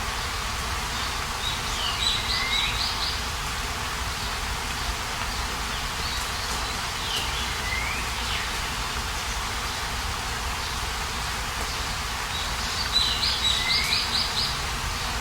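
A songbird singing the same short phrase three times, about five or six seconds apart, each a few down-slurred notes and a quick trill, over a steady background hiss.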